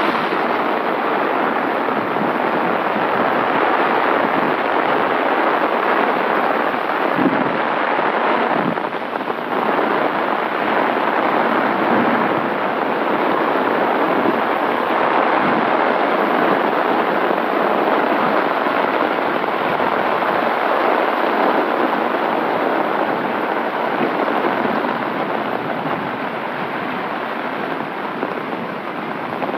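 Heavy rain falling steadily, drumming on the canopy of an umbrella held close overhead.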